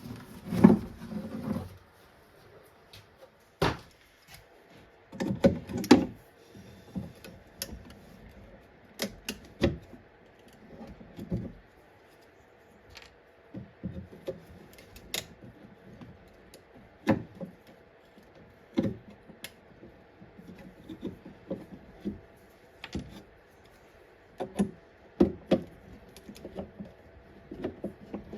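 Irregular clicks, taps and knocks of tools and hardware being handled while working on an old wooden chest, with a few duller thuds, over a faint steady hum.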